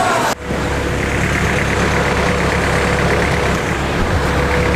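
A vehicle engine running steadily, a low rumble with a faint steady whine above it, starting abruptly about a third of a second in.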